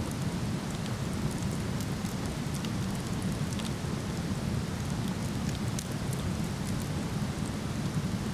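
Waterfall rushing steadily, with a wood fire crackling faintly over it in small scattered pops.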